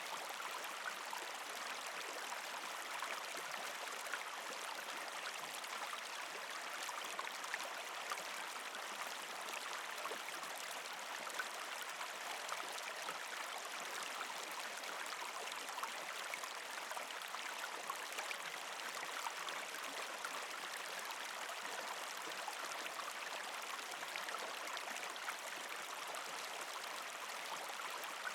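Water of a partially frozen creek flowing and gurgling over rocks, a steady splashing rush with many small trickling ticks.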